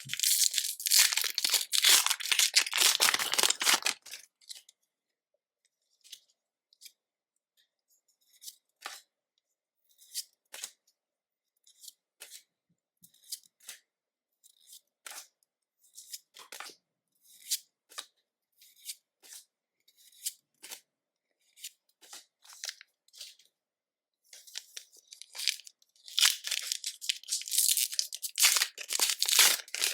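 Foil Pokémon booster pack wrapper torn open and crinkled for the first few seconds, then a long stretch of light, scattered clicks and flicks as the cards are handled one by one, and more foil crinkling and tearing near the end as the next pack is opened.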